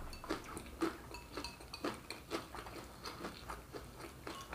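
Faint, irregular chewing and small wet mouth clicks from eating fried Brazilian pastel, a string of soft ticks every fraction of a second.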